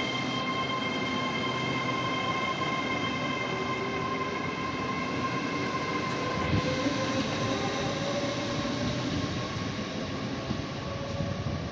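A passenger train running through a railway station: a steady rumble with several high, steady whining tones. About six seconds in, a lower whine starts slowly rising in pitch.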